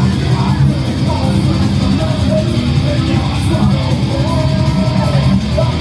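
Loud guitar-driven rock music with singing.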